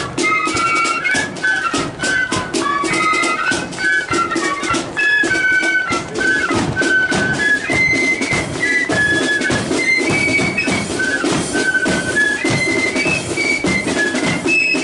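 Marching flute band playing a tune: several flutes carry a stepping melody in unison over a steady beat of snare and bass drums.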